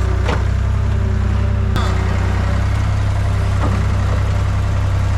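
Skid steer engine running steadily at a constant speed, with a sharp click a little under two seconds in.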